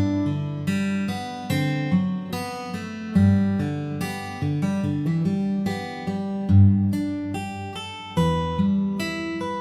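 Instrumental music: plucked notes and chords on a string instrument, each starting sharply and ringing away, played at an unhurried pace of roughly one new note or chord a second.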